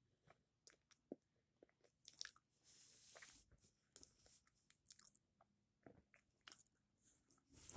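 Faint close-up chewing of a soft peanut butter and jelly sandwich: scattered small wet mouth clicks and smacks, with a short hiss about three seconds in.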